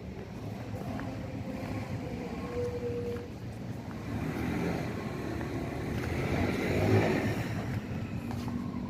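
Nissan Juke's HR15DE 1.5-litre four-cylinder engine running, swelling from about four seconds in to a peak near seven seconds, then easing back.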